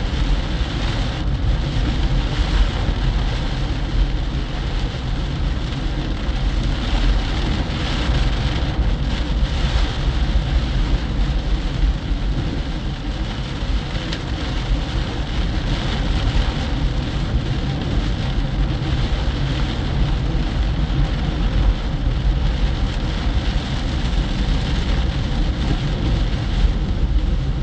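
Heavy rain beating on a moving car, over a steady low rumble of tyres and road noise.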